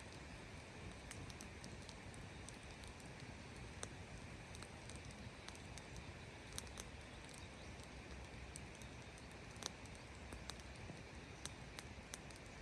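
Campfire burning: irregular crackles and pops from the burning wood over a steady soft hiss, with one sharper pop about three quarters of the way in.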